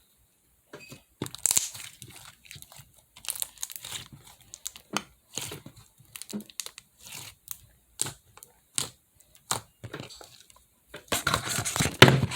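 Three-colour mixed slime being squished and stretched by hand, giving irregular sticky crackles and clicks that grow denser and louder near the end.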